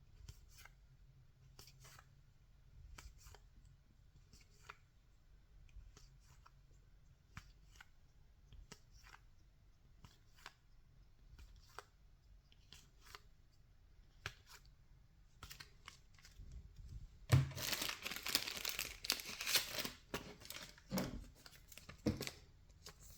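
Trading cards being handled, with faint soft clicks and slides. About seventeen seconds in comes a loud crackling and tearing of a plastic wrapper lasting a few seconds, followed by a couple of sharp thumps.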